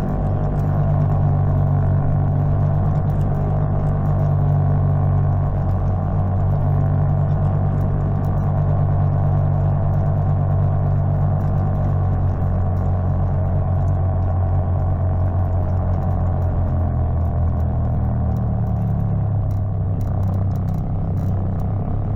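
Greenworks 60V electric mini bike under way: a steady low hum from its motor and drive, with rattle from the running bike. The hum's pitch falls about 17 seconds in as the bike slows.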